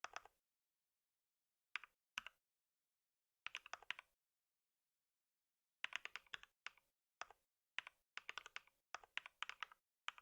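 Typing on a computer keyboard: a few scattered keystrokes, then a short burst, then a longer run of fast typing in the second half, with complete pauses between the bursts.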